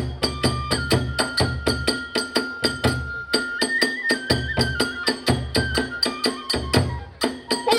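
Kagura hayashi: a transverse bamboo flute holding long notes that step up and down in pitch, over a fast, even clash of small hand cymbals and a large drum beating in rolls.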